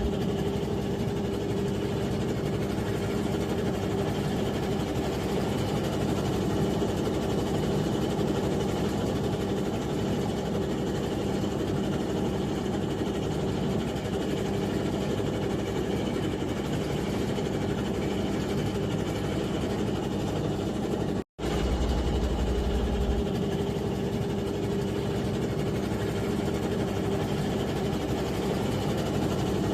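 Steady drone of a squid jigging vessel's engine machinery, an even hum with a fixed pitch. It cuts out briefly about two-thirds of the way through, then comes back with a heavier low rumble for a couple of seconds.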